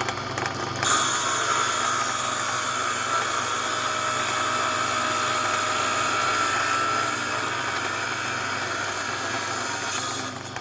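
Small high-speed grinding tool whining steadily as it grinds a piece of rough opal to look for colour. It starts about a second in and stops near the end.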